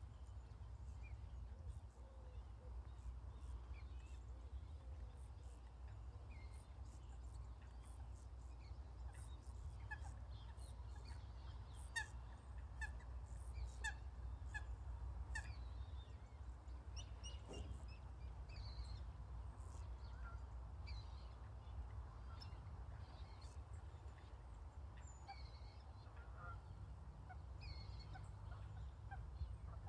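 Birds calling: many short, scattered calls over a steady low rumble.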